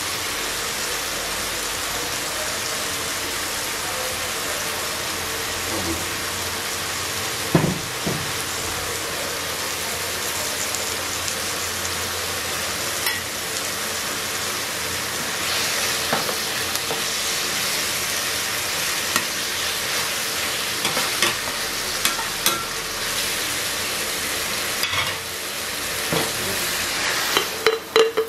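Slices of chicken blood frying in oil in a non-stick pan, a steady sizzle. Tongs click and scrape against the pan as the pieces are turned, with a quick run of clatters near the end.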